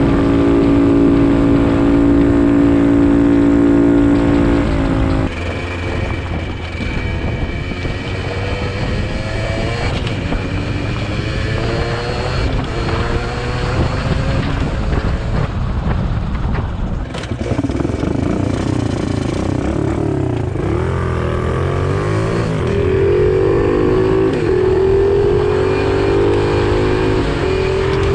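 Pit bike engine being ridden: held at steady high revs, then easing off about five seconds in, followed by repeated rises in pitch as it accelerates through the gears, with the revs swinging up and down in the second half.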